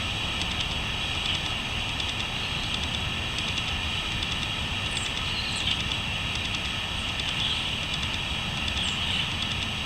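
Steady chorus of crickets chirping, with a few short bird chirps about five seconds in and again near the end, over a low steady rumble.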